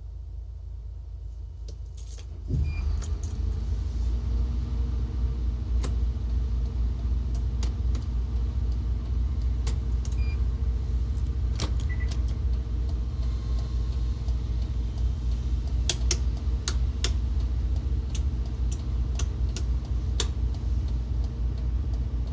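Hino hybrid bus's diesel engine starting about two and a half seconds in and then idling steadily, with scattered sharp clicks and rattles over the idle.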